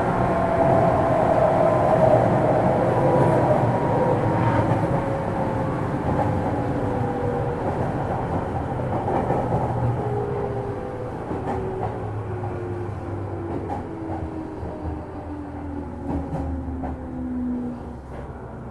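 JR East 205 series electric train running sound from inside a motor car as it slows. The whine of its DC traction motors and gears falls steadily in pitch and the running noise fades, with a few rail clicks near the end.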